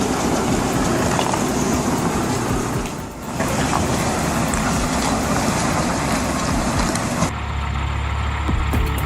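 Heavy truck running hard with a loud, dense rushing noise, dipping briefly about three seconds in. About seven seconds in it changes abruptly to a low, steady engine drone.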